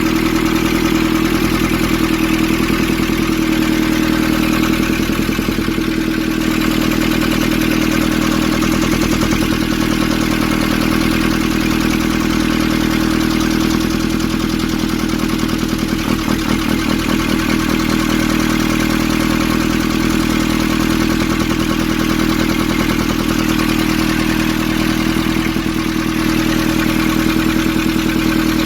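Nissan ZD30 diesel engine idling steadily, running after a no-start fault.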